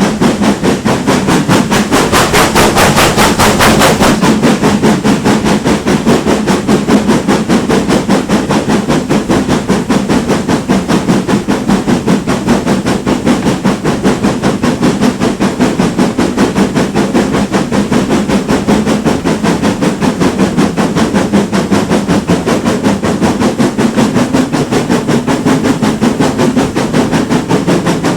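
GWR Manor class steam locomotive working hard, its exhaust beating fast and evenly. A burst of hissing steam comes about two seconds in and stops about two seconds later.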